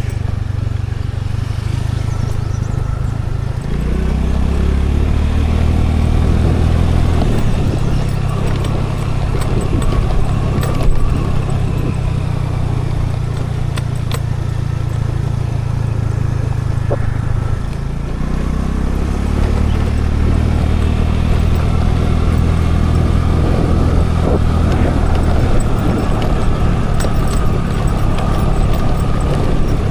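Scooter engine running under way, with road and wind noise. The engine note climbs twice, about four seconds in and again about eighteen seconds in, and falls back a few seconds later each time.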